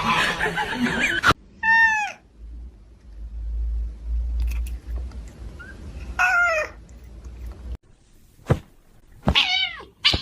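A domestic cat meowing three times, short falling calls a few seconds apart, with a low rumble under the first two.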